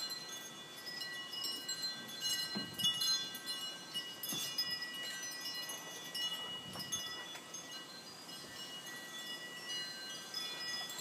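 Wind chimes ringing in gusting wind ahead of a thunderstorm: many overlapping bell-like tones that keep sounding, with fresh strikes at irregular moments.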